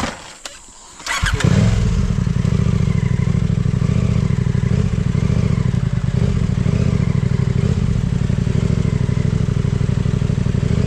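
Off-road motorcycle engine starts about a second in, then runs steadily with a fast, even beat.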